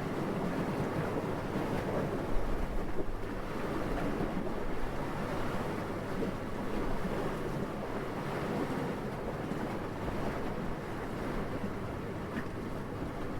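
Steady wind, a low rushing noise, briefly louder about two seconds in.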